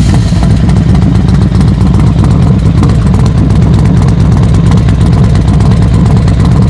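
Motorcycle engine running steadily, with a dense low rumble that holds an even level throughout.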